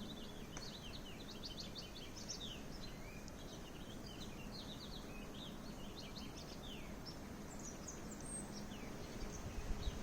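Small songbirds chirping in a steady stream of short, high calls, many falling in pitch, over a low rush of wind.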